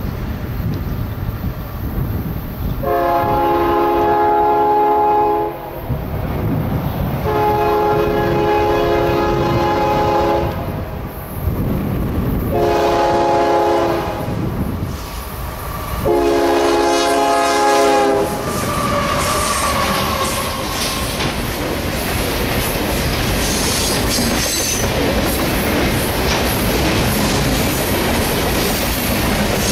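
A CSX diesel freight locomotive's multi-tone horn sounds the grade-crossing signal, long, long, short, long, as the train approaches. From about twenty seconds in, the locomotives (a GE ES40DC and an AC6000CW) and the intermodal cars run close past with a steady rumble and clickety-clack of wheels on the rail.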